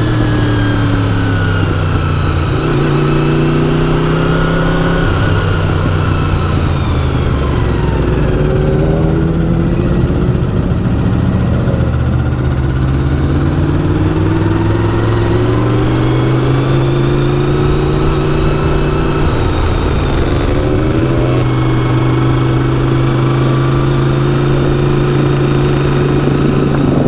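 Vehicle engine running at low speed, its pitch rising and falling slowly as the revs change.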